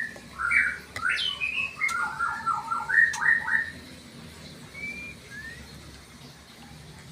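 Bird calling: a fast run of short chirping notes in the first few seconds, then a couple of faint single calls.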